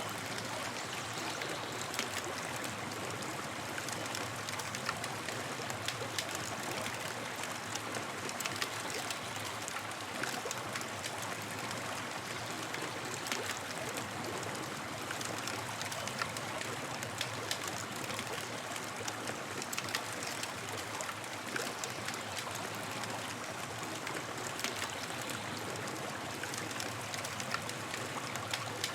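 Campfire burning with a steady hiss and frequent small, irregular crackles and pops.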